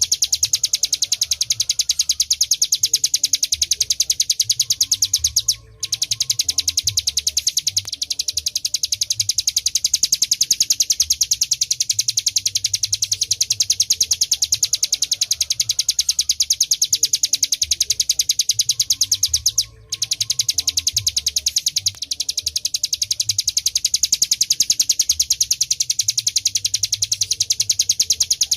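Ciblek gunung, a small prinia, singing in a fast, unbroken rattling trill of rapidly repeated high notes, the driving 'ngebren' song used as a tutor recording. It pauses briefly twice, about six seconds in and again near twenty seconds.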